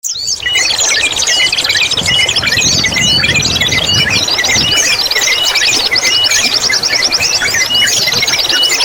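Several cage songbirds singing at once in a dense layered mix: fast trills, chirps and short whistled notes repeating every couple of seconds, over a background of trickling water.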